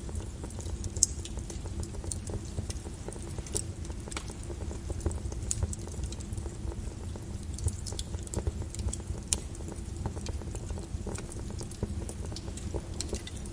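Volcanic lava crackling and popping over a steady low rumble, with one sharper crack about a second in.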